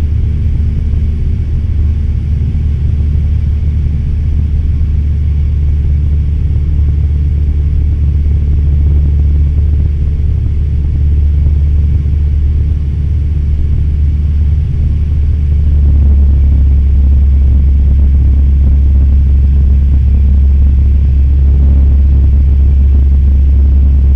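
Cessna 172M's four-cylinder Lycoming engine and propeller running steadily in flight, a loud, deep drone. It grows a little louder about two-thirds of the way through.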